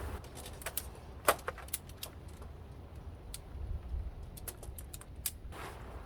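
Irregular small clicks and clinks of hard objects being handled, the loudest about a second and a half in and a quick cluster near the end.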